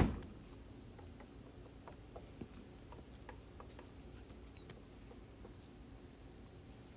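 A sharp click at the very start, then faint, scattered light clicks and taps of handling over low room tone.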